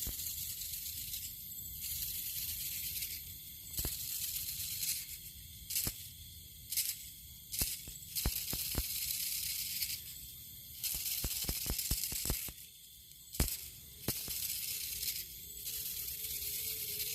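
Bundle of thin split-bamboo strips shaken to lure rats, giving a high rustling hiss in bursts of a second or two, with a few sharp clicks in the middle.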